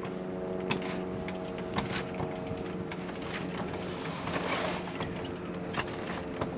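Small sailboat's engine running steadily under way, a constant droning hum, with scattered light knocks and a short rushing swell about four and a half seconds in.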